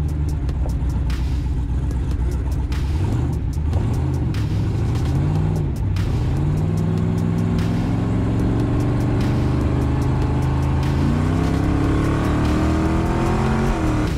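Twin-turbo Oldsmobile Cutlass engine revving: two short blips, then a long pull as the pitch climbs steadily under hard acceleration, falling off sharply near the end.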